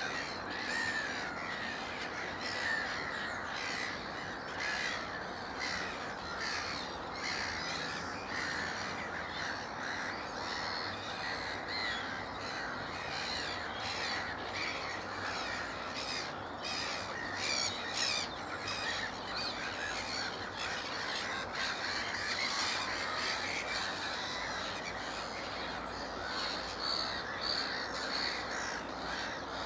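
Many black-headed gulls calling at once, harsh overlapping calls running on without a break.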